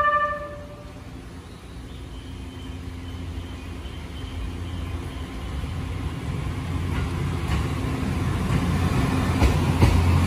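JR East E257-500 series limited express electric train pulling along the platform, its rumble building steadily louder as it comes closer, with sharp clicks over the last few seconds. A station chime melody fades out in the first half second.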